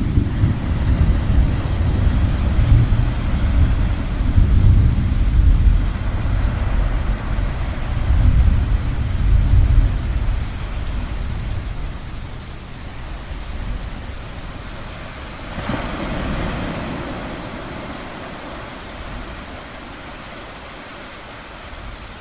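Thunder rolling in a long, low rumble that fades away about halfway through, over a steady wash of surf. Later a wave surges in and then recedes.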